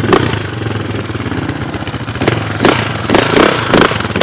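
A small dirt bike engine running steadily as it is ridden, with several short sharp knocks in the second half.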